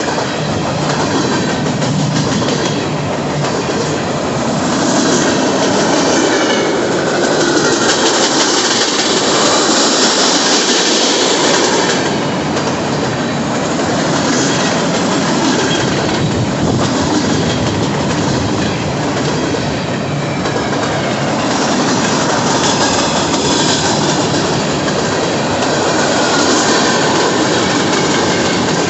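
Freight train cars rolling past close by: a steady loud rumble and rattle of steel wheels on the rails, with faint high-pitched wheel squeal at times.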